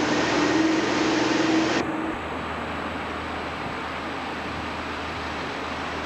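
Train noise at a railway station on camcorder audio, a steady rushing sound with a held tone, cut off abruptly about two seconds in; after that a quieter steady low hum.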